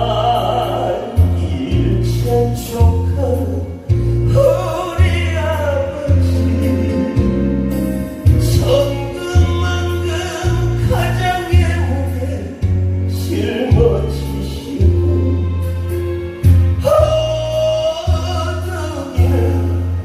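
A song sung live over a backing track, with a bass line that steps from note to note about once a second under the wavering vocal melody.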